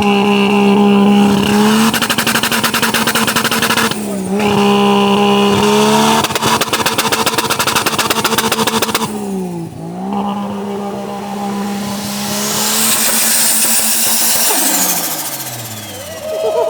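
Car engine revved hard and held at a steady high rpm with a rapid crackling stutter, the sound of two-step launch control. The revs drop and climb back several times, then fall away near the end.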